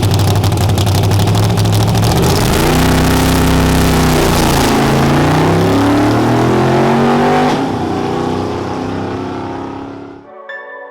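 A high-powered drag-race vehicle's engine, loud and lumpy at first, then launching hard. Its pitch climbs and drops several times as it shifts up through the gears, and it fades away as it runs off. Near the end it cuts off abruptly and music comes in.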